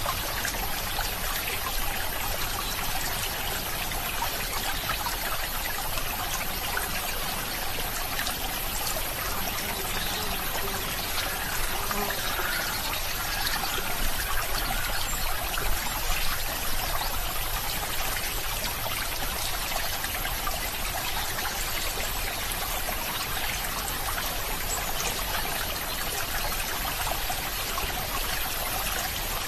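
Running water: a stream trickling and splashing steadily, a little louder about halfway through.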